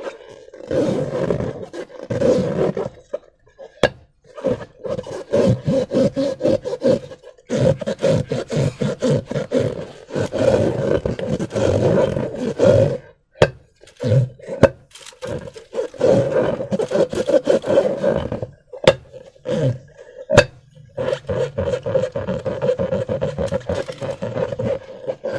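Rubber balloons and slime being worked by hand: repeated rubbery squeaking and squelching in stretches of a second or more, with a few sharp snaps in between.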